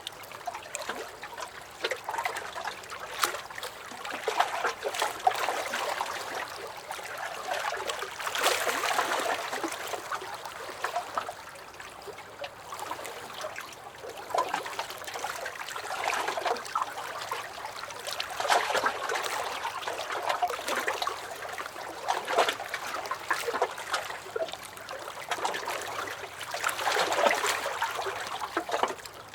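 Small lake waves lapping and splashing against a dock, a busy patter of little splashes that swells and eases every few seconds.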